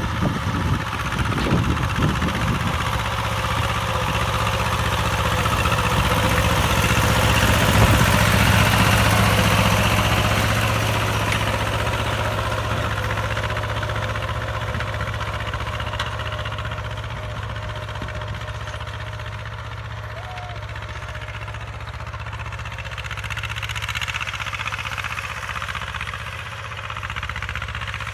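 Vintage T25 tractor's two-cylinder air-cooled diesel running steadily under load, pulling an 18-disc harrow in high gear. The engine note grows louder to about eight seconds in, then fades and swells again near the end, as the tractor moves nearer and farther.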